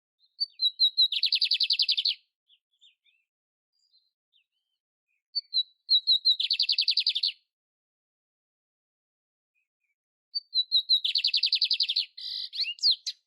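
Canary (canário império) singing three repeated phrases about five seconds apart, each a few short high notes leading into a rapid trill lasting about a second. The last phrase ends with a few quicker varied notes.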